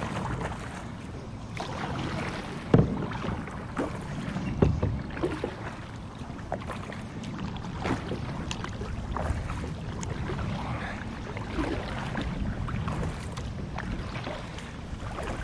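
Kayak being paddled: paddle splashes and drips with scattered knocks of the paddle against the hull, the sharpest about three seconds in, over light wind on the microphone.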